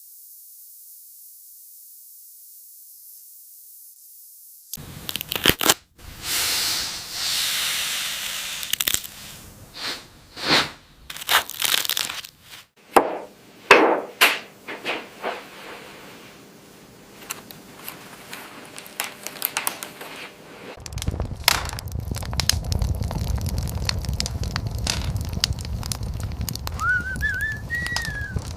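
Campfire crackling and snapping: a run of sharp cracks and rustling bursts, then from about two-thirds of the way in a steady low rumble with dense small crackles and a brief wavering whistle near the end.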